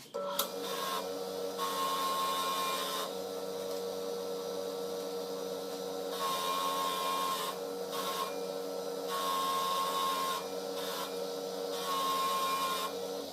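Small electric motor-driven workshop tool running with a steady hum, with about six rough grinding or scraping passes of varying length on the work. It starts suddenly and stops suddenly.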